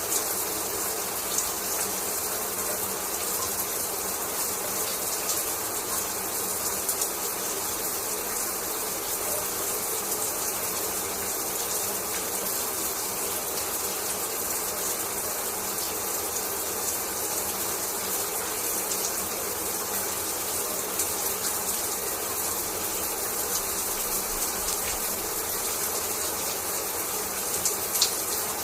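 Shower spray falling steadily, with a few faint sharp ticks of droplets here and there, the loudest near the end.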